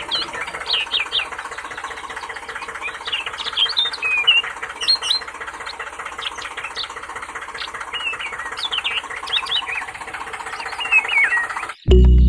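A small motor running steadily with a fast, even buzz, while birds chirp repeatedly over it.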